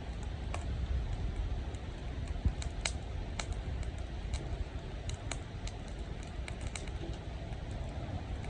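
Firewood crackling in a campfire, with irregular sharp pops and snaps, over the steady rush of a mountain stream.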